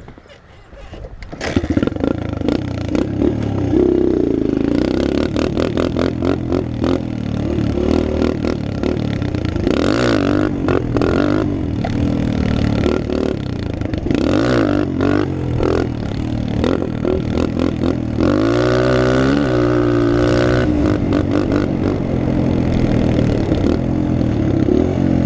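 Dirt bike engine running hard while the bike is ridden. It comes up sharply about a second and a half in, then revs up and down several times, with a long sweep of pitch rising and falling about three-quarters of the way through.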